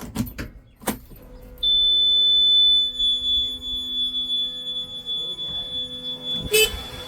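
A steady high-pitched electronic buzzer tone starts about one and a half seconds in, loud at first and then softer, over a low steady machine hum. There are a few clicks early on and a single knock near the end.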